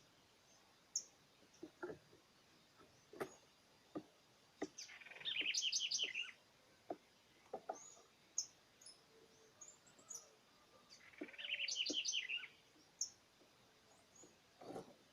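A small songbird singing two rapid, twittering song phrases about six seconds apart, with short single chirps and a few faint clicks in between.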